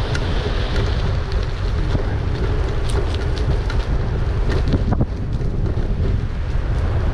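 Wind buffeting the microphone of a moving e-bike, a steady low rumbling rush, with a faint steady hum and scattered small clicks from the ride.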